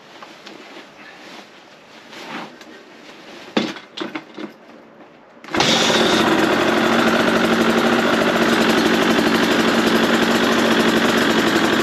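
KTM 150 two-stroke dirt bike engine being kick-started cold on choke: a few knocks from the kicks, then about five and a half seconds in it fires and keeps running steadily.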